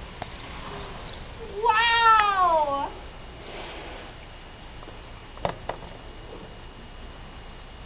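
A cat gives one long, drawn-out meow, rising then falling in pitch, followed a few seconds later by a short sharp click.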